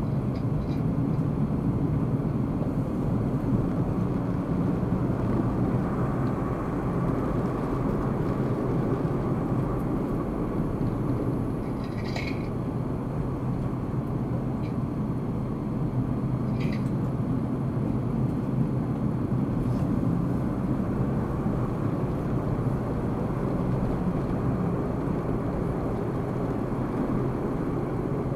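A car driving, recorded by a dashcam: steady low engine and road rumble, with two brief higher-pitched sounds about halfway through.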